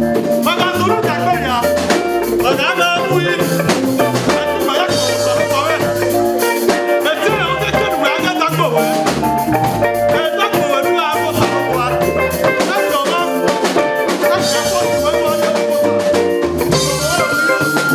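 Live worship band playing an upbeat song: drum kit, bass line and keyboard, with singing voices over it.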